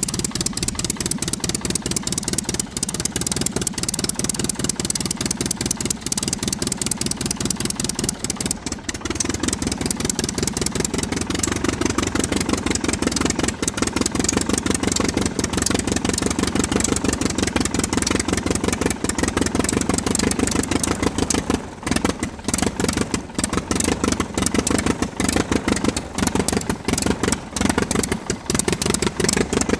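Small electric motor of a homemade miniature tractor running with a fast buzzing rattle. Its tone thickens about nine seconds in, and it briefly dips a few times later.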